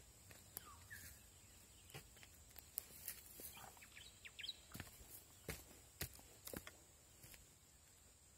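Faint rural ambience: a few brief bird chirps among scattered light clicks and rustles, over a steady faint high-pitched hiss.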